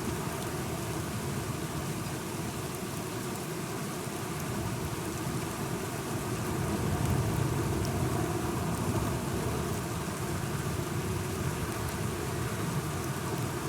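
Steady rain falling, with a low rumble that swells a little around the middle and fades again.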